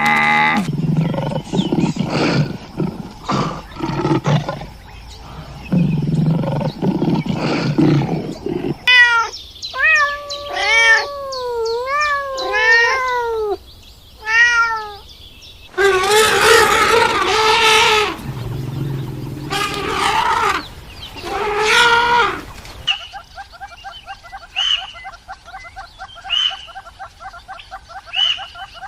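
A string of different animal calls cut one after another. Rough, noisy calls come first, then a run of short calls that slide up and down in pitch, more loud rough calls, and a fast repeating chatter near the end.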